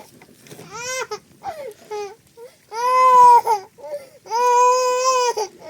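A baby crying: a few short broken sobs, then two long, high wails of about a second each.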